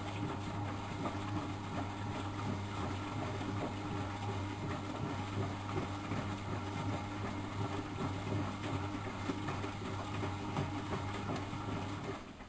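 Miele Professional WS 5105-C washing machine running, its motor turning the drum with a steady hum and light rattling; the run stops just before the end, as in the wash cycle's alternating turn-and-pause rhythm.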